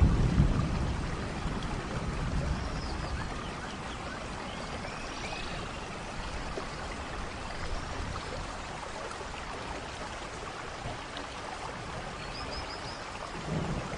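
Steady rain pouring down, with a low rumble of thunder fading away in the first couple of seconds and another rumble building near the end. A few faint high chirps sound over the rain.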